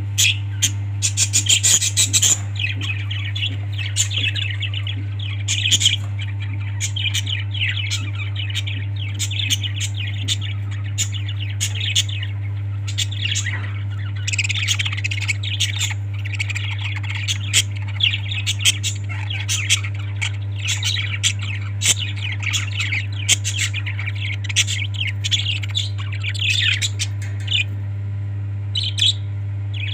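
Pet parrots chirping and squawking in quick, continual short calls, with a cluster of sharp clicks in the first couple of seconds, over a steady low hum.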